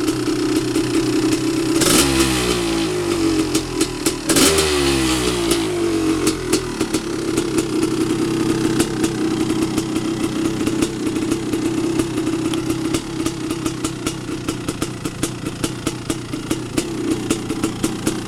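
1989 Honda CR500's single-cylinder two-stroke engine idling unevenly with sharp pops and crackles, revved twice, about two and four and a half seconds in, each rev rising in pitch and falling back to idle. It is running on its original 23-year-old piston, freshly started after sitting unstarted for over a year.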